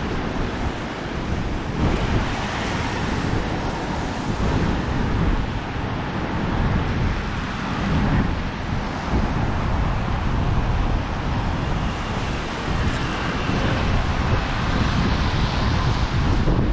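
Strong wind buffeting the microphone with a steady low rumble, over the continuous wash of surf breaking on the beach.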